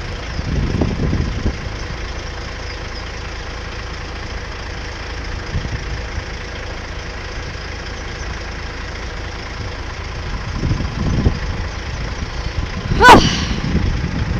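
Road vehicle engines idling with a steady low rumble, swelling briefly about ten seconds in. About thirteen seconds in, one short, sharp, high-pitched sound, the loudest moment, cuts through.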